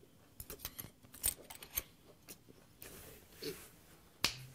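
Close-up mouth sounds of a person chewing a mouthful of grilled beef skirt steak: scattered wet clicks and smacks, a soft breath around the middle, and a sharper smack near the end.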